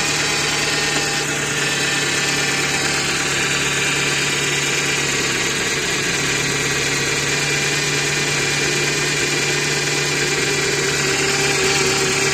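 Ford Focus 2 1.6 engine idling, with its hydraulic power steering pump droning steadily. The drone comes from the pump running short of fluid, which has leaked out through the steering rack, while the reservoir is being topped up.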